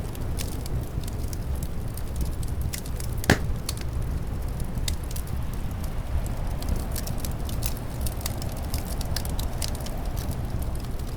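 Wood fire crackling in a fireplace: scattered sharp pops and snaps, one louder pop about three seconds in, over a steady low rumble of wind.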